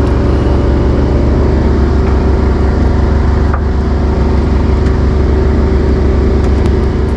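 Yamaha fishing boat's engine running at a steady speed underway: a loud, even drone with a strong low hum.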